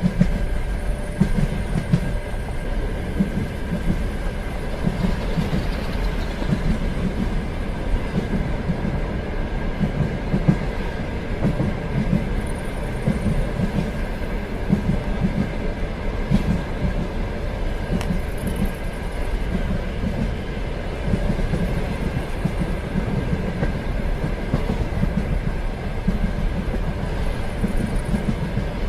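Train running steadily on the rails, a continuous low rumble with uneven clatter of wheels over the track and a faint steady whine.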